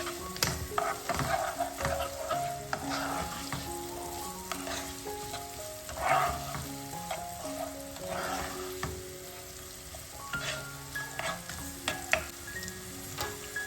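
Food sizzling as it fries in a pan, the hiss swelling several times, with a few sharp clicks. Gentle background music with a mallet-like melody plays over it.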